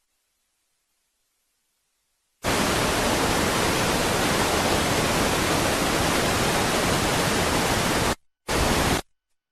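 Loud, even burst of electronic static hiss, the same across all pitches, starting abruptly and cutting off after about six seconds, then a short second burst of the same hiss about a second before the end.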